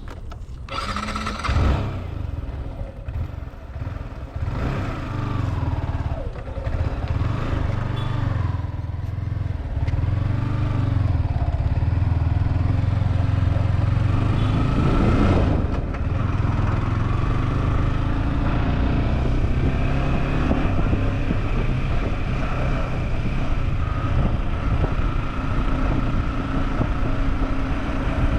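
Motorcycle engine of a Yamaha R15 V4, a single-cylinder sport bike, running under way. It gets louder over the first ten seconds or so, and its pitch rises and falls with the throttle about halfway through.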